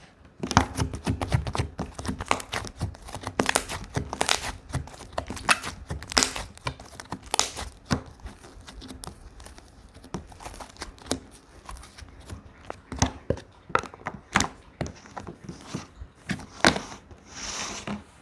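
Slime being squeezed and stretched by hand, giving a dense run of irregular sharp clicking pops and crinkly tearing sounds, with a short hiss near the end.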